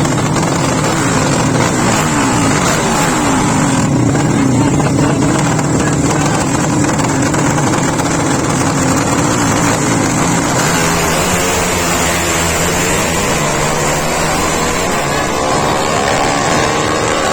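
A 200cc engine running loud and continuous, its pitch steady at first, then wavering slowly up and down from about ten seconds in.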